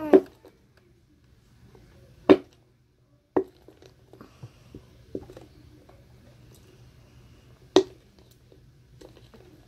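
Sharp knocks and small squishy clicks from handling a nearly empty bottle of clear glue to force the last of it out, about four loud knocks spread irregularly with fainter ones between.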